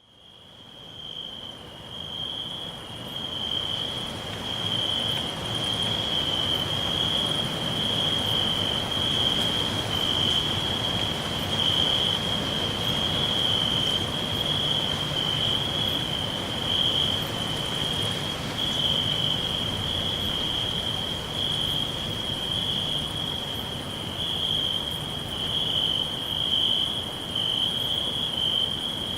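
Crickets chirring in a continuous, steady high-pitched chorus at one pitch, fading in over the first few seconds, over a soft background hiss.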